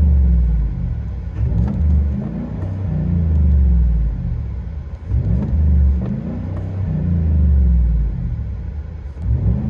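2019 GMC Sierra's 5.3 L V8 with a Flowmaster Super 10 muffler and factory resonators, heard from inside the cab as a deep drone. The engine note rises in pitch three times and holds steady between the rises.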